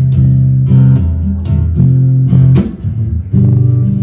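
Guitar accompaniment to a song, with chords struck every half-second or so over strong sustained low bass notes, and no voice.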